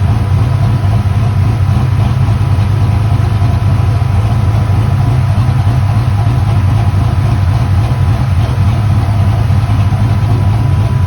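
A motor vehicle engine idling steadily, with a deep, even hum.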